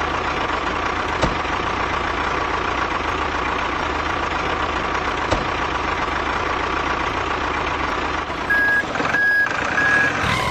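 Truck engine running steadily, then three evenly spaced reversing beeps near the end as the truck backs up.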